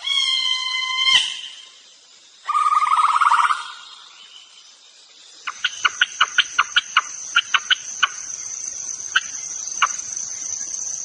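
Animal calls: a short held call with a clear pitch at the start and a buzzy rattling note about two and a half seconds in. From about five seconds on there is a steady high insect-like whine with many quick, irregular sharp chirps.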